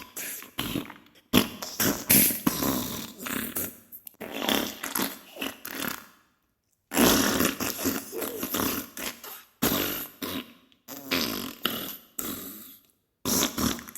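Diarrhea sound effect: wet, spluttering fart noises in a run of irregular bursts, broken by a short silence about halfway through and another near the end.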